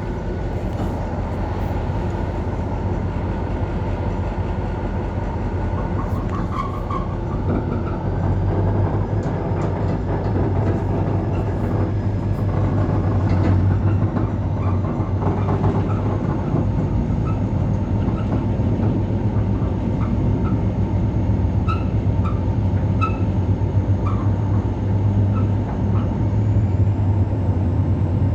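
EMD GT26CW-2 diesel locomotive's turbocharged two-stroke V16 engine running hard under acceleration, a deep steady drone that grows louder about eight seconds in, with a faint whine slowly rising in pitch. Scattered light ticks come in the second half.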